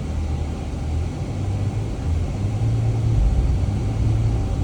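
Jeep engine running under load during a recovery pull of a stuck Jeep: a steady low rumble that steps up a little about halfway through as the throttle comes on.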